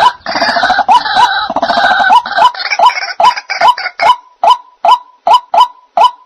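White-breasted waterhen calling: a steady series of short rising notes, about two to three a second. For the first two seconds or so, harsher grating calls overlap the series, then the rising notes go on alone.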